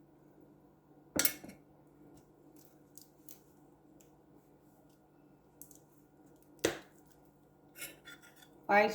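Kitchen utensils and containers being handled: two sharp clinks, about a second in and near the end, with a few faint ticks between them, over a low steady hum. A voice begins just at the close.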